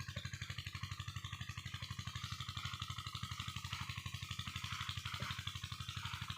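Single-cylinder Kirloskar 8 hp diesel pump-set engine running steadily, with a rapid even knock of about ten firing beats a second.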